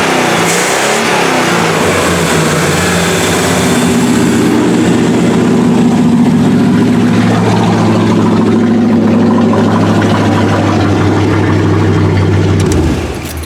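1979 Chevy K20 pickup's engine and exhaust being revved, its pitch rising and falling for the first few seconds, then running steadily at a fast idle before it is shut off near the end. The owner reckons its carburetor needs work: the four-barrel isn't opening up and it is leaking fuel.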